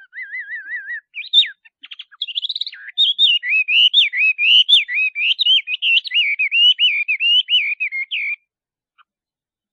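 Male Chinese hwamei (Garrulax canorus) singing a long, varied whistled song: a quick wavering trill to begin, then loud looping, warbling phrases that stop about eight seconds in.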